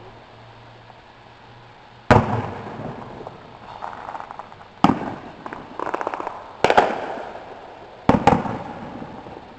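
Aerial fireworks bursting: five sharp bangs, the last two in quick succession near the end, each trailing off in an echo, with patches of rapid crackling between them.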